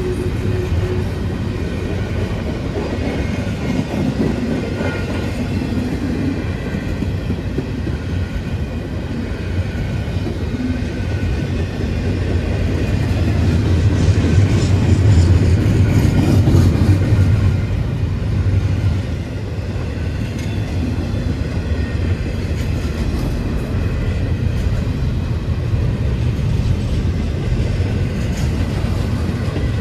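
Double-stack intermodal freight train's container well cars rolling past at close range, a steady rumble of steel wheels on the rails that swells louder about halfway through.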